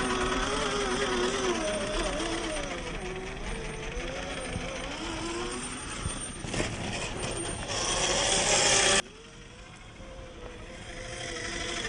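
Axial SCX10 III RC crawler's 45T 540 brushed motor and gears whining, the pitch rising and falling with the throttle. A loud hiss builds near the middle and cuts off abruptly about nine seconds in, leaving a quieter whine.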